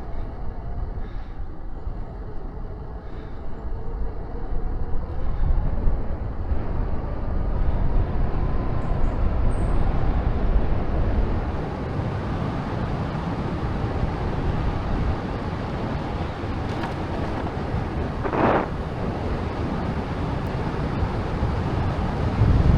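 Wind rushing over the microphone of a moving bicycle, a steady low rumble of air and road noise. There is a brief sharper noise about three-quarters of the way through.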